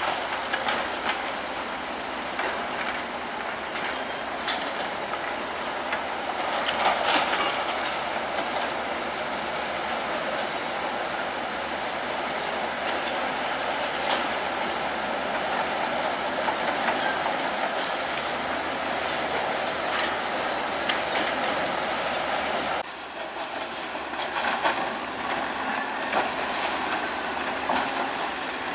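Crawler bulldozer working, its steel tracks clanking and squealing over the steady noise of the machine, with an abrupt change in the sound about three quarters of the way through.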